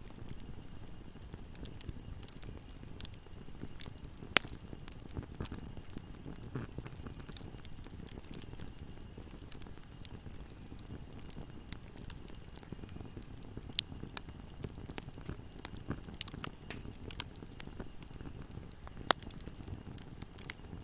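Wood fire crackling, with a steady low rumble of the burning and irregular sharp pops, three louder ones standing out about 4, 14 and 19 seconds in.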